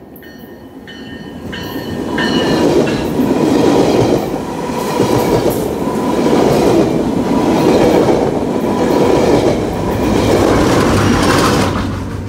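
Metrolink bilevel commuter train passing close by, its wheels clacking on the rails. The sound builds up over the first two seconds, swells and ebbs about every second and a half as the cars go by, and fades near the end.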